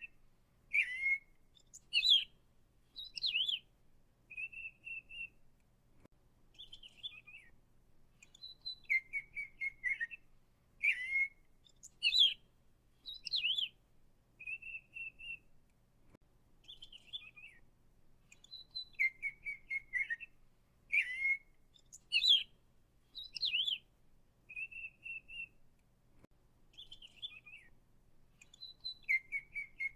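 Birds chirping and whistling: short trills and gliding whistle notes in a set of about six phrases that comes round again in the same order about every ten seconds.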